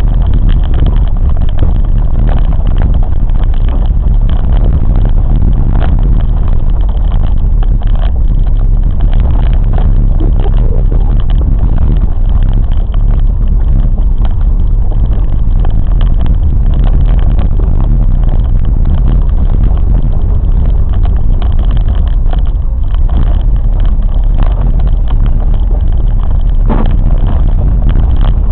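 Train in motion: a loud, steady low rumble of the running train, with a few faint short knocks near the start and again near the end.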